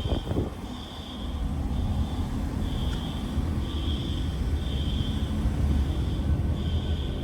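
Low, steady engine rumble that slowly grows louder, with a short high chirp repeating about once a second.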